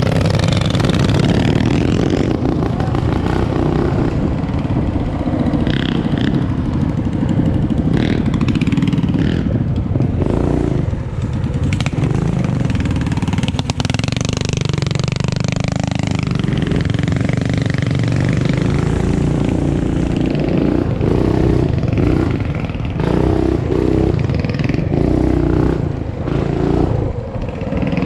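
Small off-road motorbike engines running hard and steadily, with one engine's note falling sharply about halfway through.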